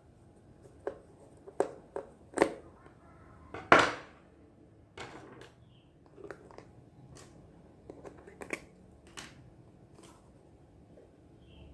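Irregular clicks, taps and knocks of miniature toy kitchen pieces being handled, unpacked and set down, with the loudest knock a little under four seconds in.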